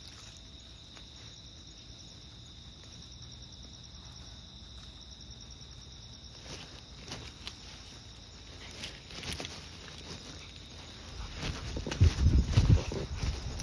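Steady, pulsing chirring of insects in a late-summer pre-dawn chorus, with scattered footsteps. Low, irregular buffeting on the microphone begins about three-quarters of the way in and becomes the loudest sound.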